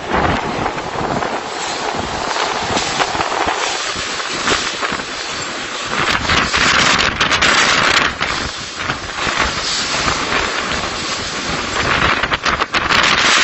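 Cyclone-force wind gusting hard against the microphone: a loud rushing that swells about six seconds in and again near the end.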